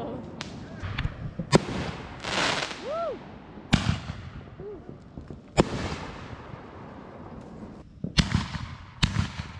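Reloadable firework mortar shells bursting: about seven sharp bangs, a second or two apart, with crackling and hissing between them. There is a brief whistling tone about three seconds in.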